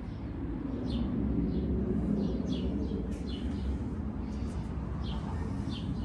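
Small birds chirping, about a dozen short high calls spread through, over a steady low outdoor rumble.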